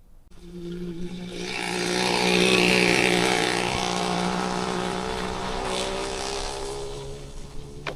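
A motor vehicle passing close by: its engine note and tyre hiss come in suddenly, swell to a peak, then slowly fade. A sharp click sounds near the end.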